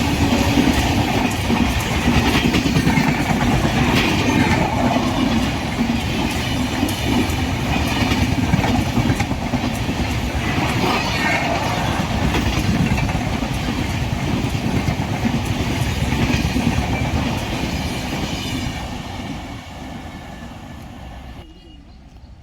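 Electric express train passing at high speed on the Indian Railways main line, a loud steady rush of wheels on rail with rapid clickety-clack over the rail joints. It fades away near the end as the train recedes.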